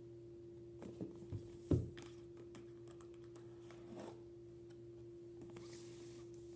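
Packaging and a small device being handled during an unboxing: a few clicks and knocks in the first two seconds, the loudest about a second and a half in, a lighter click later, then soft rustling near the end. A steady low hum runs underneath.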